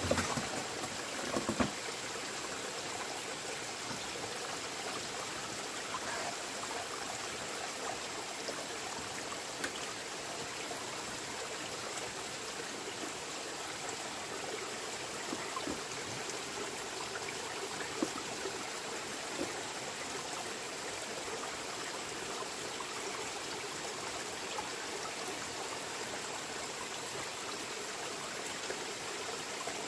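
Running water: a small stream trickling and splashing steadily. There are a few light knocks in the first two seconds.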